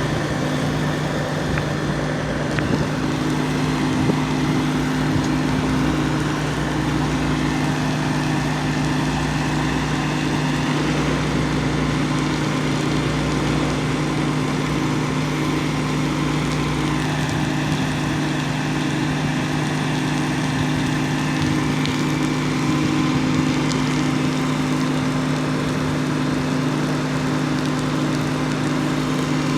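Fire truck's engine running steadily at constant speed, a continuous low drone.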